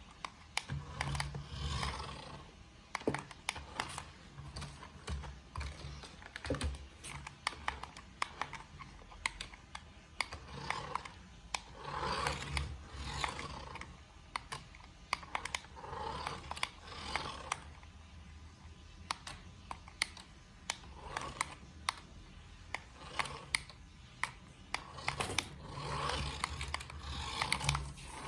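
Toy remote-control car driving in short bursts: its small electric motor and gears whir on and off every second or two, with many sharp plastic clicks and clatters.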